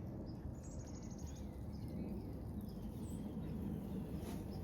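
Outdoor ambience: a steady low rumble with a faint, high chirping trill about half a second in.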